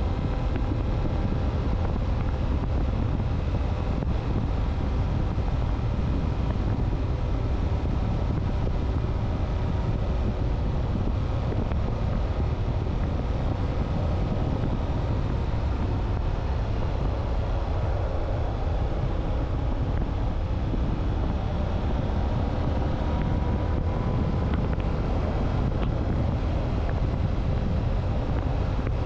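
Motorcycle engine running at a steady pitch under heavy wind buffeting on the microphone while riding.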